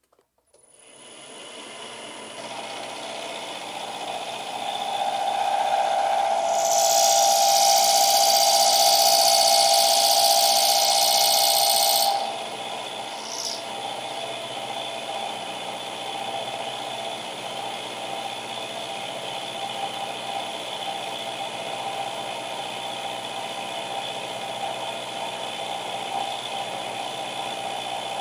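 Milling machine spindle motor starting up and running steadily. From about seven to twelve seconds in there is a louder, hissing stretch as the cutter works the steel flat bar.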